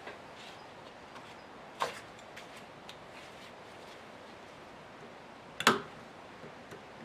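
A few short, sharp knocks and clicks, such as hard objects being set down or handled. There is a softer one about two seconds in, a louder one about five and a half seconds in, and faint ticks in between.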